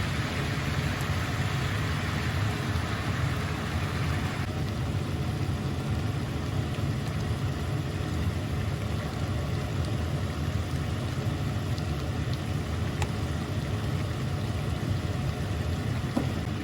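Steady low rumble of a running vehicle, with a higher hiss that drops away about four and a half seconds in.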